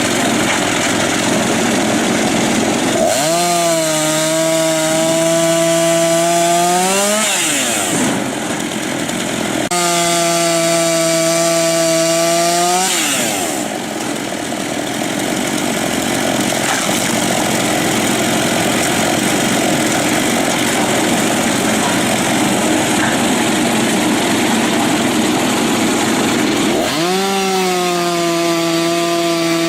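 A power saw cutting wood. Long stretches of noisy cutting alternate three times with the saw running free at a steady, high pitch that climbs slightly, then falls away as the blade bites into the wood again.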